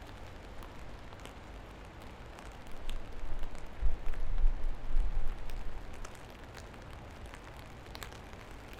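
Steady rain falling, with scattered separate drips ticking through it. A deep low rumble swells up about three seconds in and fades out about three seconds later.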